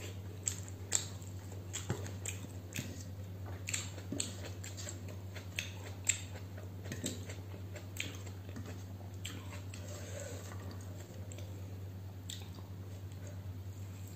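A person eating close to the microphone: chewing, with many irregular crisp crunches and mouth clicks, most of them in the first half and fewer later on. A steady low hum runs underneath.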